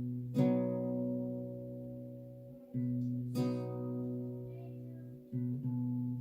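Acoustic guitar playing an instrumental intro: chords strummed and left to ring, with a strong strum about every three seconds and quieter notes changing in between.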